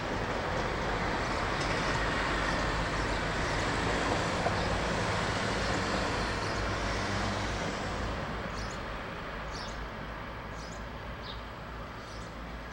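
A passing road vehicle's noise swells over a few seconds and then slowly fades. In the second half, short high bird chirps repeat about once a second.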